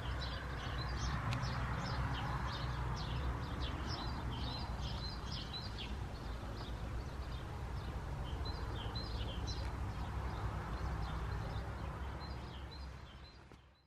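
Small birds chirping in quick, repeated short calls over a low steady rumble, fading out near the end.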